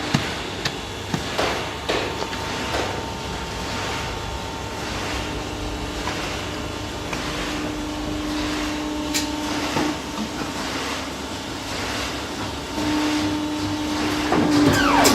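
1984 Polar 115 CE guillotine paper cutter running: a steady electric motor hum over a noisy whir, with scattered clicks and knocks from the machine's mechanism.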